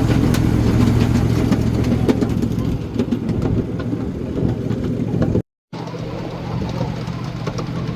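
An engine running steadily with a low hum and some rattling, quieter after about three seconds. The sound cuts out completely for a moment about five and a half seconds in.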